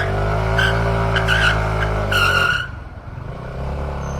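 Motorcycle engine held at high revs in a burnout, the new Beast rear tyre squealing in repeated chirps as it spins to scrub in its fresh surface. About two and a half seconds in the revs drop off and the engine falls back to a lower note.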